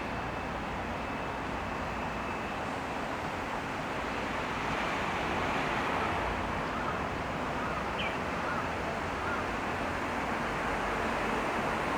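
Steady outdoor street ambience: a continuous wash of traffic noise, with a few faint short chirps about two-thirds of the way through.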